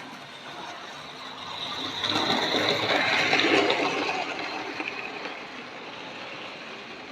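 Tri-ang Princess Elizabeth model locomotive and its two coaches running along the track. The running noise swells as the train passes close by, is loudest about three seconds in, then fades away.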